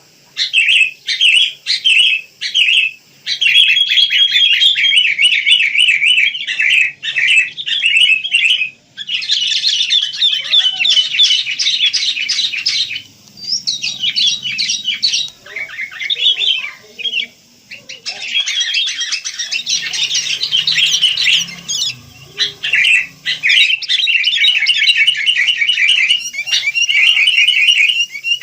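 Wild sooty-headed bulbuls (kutilang) chirping busily: long runs of rapid, high chattering notes with short breaks about 9 and 18 seconds in.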